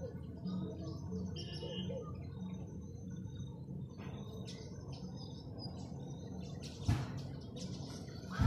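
Birds chirping and calling in short, scattered notes over a steady low pulsing, with a sharp knock about seven seconds in.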